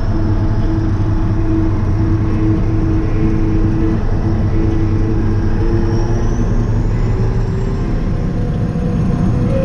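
Kirovets K-700A tractor's diesel engine running steadily while the tractor is under way, heard from inside the cab, with a steady mid-pitched whine over it. A faint high whistle rises in pitch a little past the middle.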